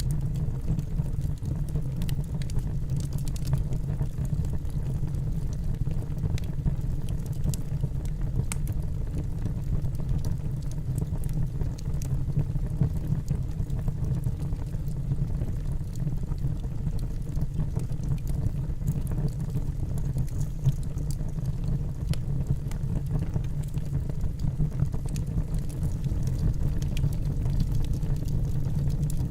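Wood fire burning in a fireplace: a steady low rush of the flames with scattered small crackles and pops from the burning logs.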